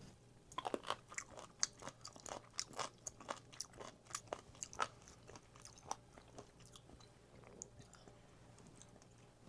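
A person chewing crunchy food: a quick run of wet crunches and mouth clicks for about six seconds, then quieter chewing.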